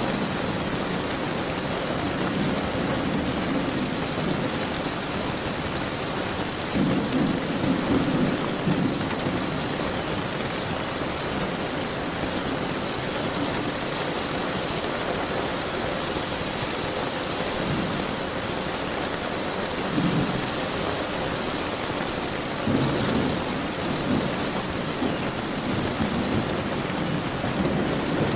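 Steady heavy rain falling, with low rumbles of thunder rolling in: a longer rumble about seven seconds in, and shorter ones later on.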